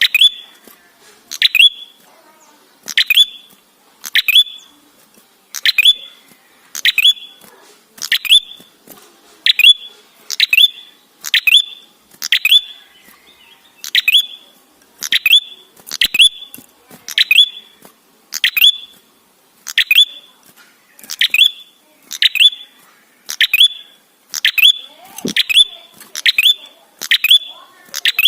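Red-headed prenjak, a tailorbird, calling a short, sharp note over and over, about one call every second and a bit, each falling to a clear held note. The calls come a little faster near the end.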